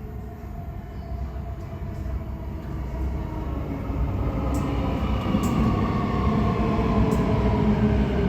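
Dubai Metro electric train pulling into the platform, growing steadily louder, with a slowly falling whine as it slows.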